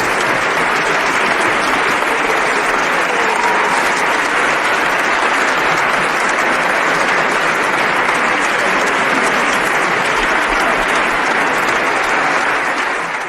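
Sustained applause from many people clapping, steady throughout and fading out near the end.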